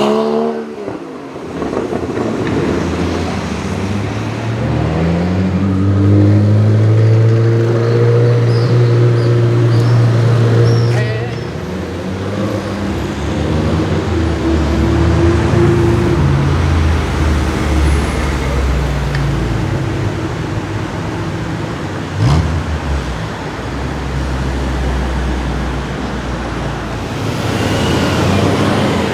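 Car engines in street traffic. One engine rises in pitch about four seconds in and then holds a steady drone for several seconds, and more engines follow. There is a single sharp knock about 22 seconds in.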